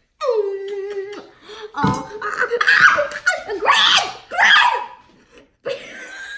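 Children laughing loudly in bursts, after a high voice slides down in pitch and holds for about a second at the start.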